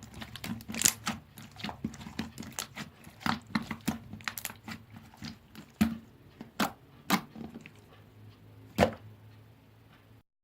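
Slime being squished and pressed by hand, giving irregular clicks and pops, several a second at first and sparser in the second half, over a faint steady hum. The sound cuts off just before the end.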